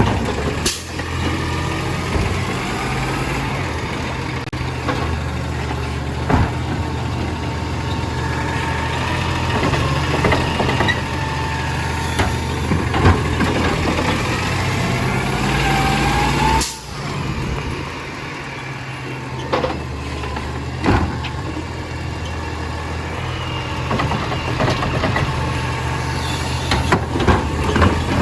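Garbage truck engine running steadily, with occasional sharp knocks or clanks and a rising whine about halfway through.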